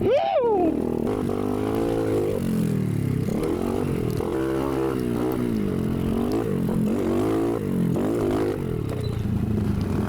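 Motorcycle engine revving hard: a quick rise in pitch just after the start, then repeated rises and falls about once a second as the throttle is worked.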